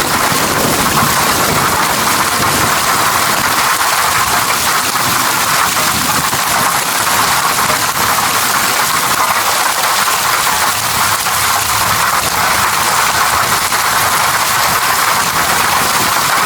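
Steady rain falling in an even hiss, with a low rumble of distant thunder dying away over the first few seconds.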